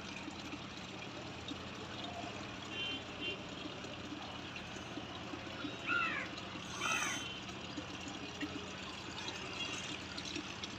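Steady outdoor background noise with a low hum, and two short rising-then-falling calls from an animal about six and seven seconds in.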